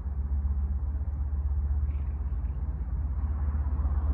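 Low, steady rumble of an approaching diesel passenger train, growing louder toward the end.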